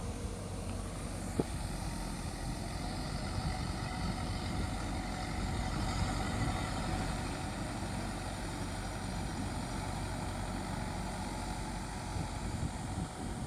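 Mahindra Yuvo Tech+ 585 DI 4WD tractor's diesel engine running steadily, with a single sharp click about a second and a half in.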